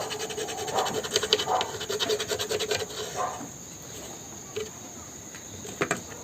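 Pencil scratching across a plastic motorcycle fairing in quick strokes, marking a guide line. The strokes stop about three seconds in, and a couple of light knocks follow near the end.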